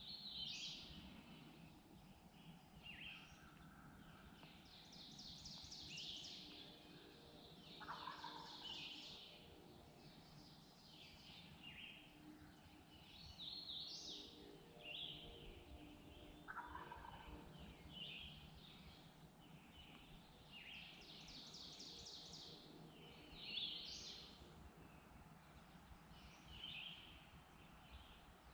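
Distant wild turkey gobbling, twice, amid a chorus of songbirds chirping and trilling.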